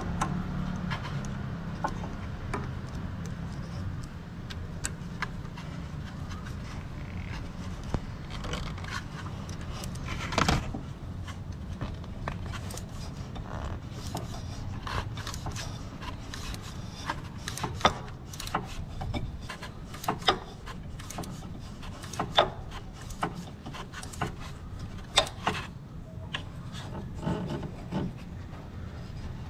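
Irregular light clicks, knocks and scraping of hands and tools working on car parts, over a low steady rumble that fades out about two-thirds of the way through.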